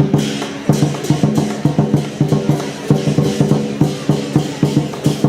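Lion-dance percussion band playing: a drum beaten in quick strikes, several a second, under ringing metal percussion.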